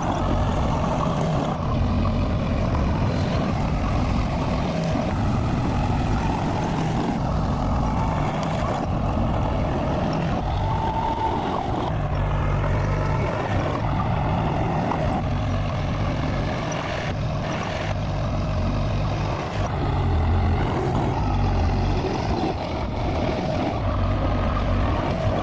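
Bulldozer's diesel engine running steadily under load, a continuous low drone with no pauses.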